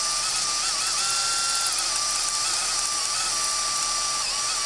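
Power drill running with a number 30 bit, drilling out the centre of a rivet on the muffler's rivet band: a steady motor whine whose pitch dips briefly several times as the bit bites into the rivet.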